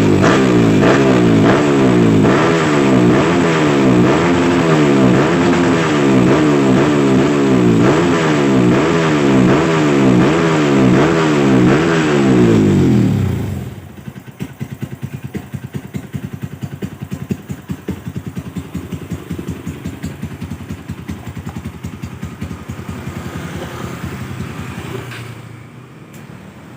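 Honda CRF motorcycle with a bored-up engine running through a Proliner XR1 aftermarket exhaust, revved again and again in quick rises and falls of a second or two each. About halfway through it drops back to a lumpy, pulsing idle, which gets quieter near the end.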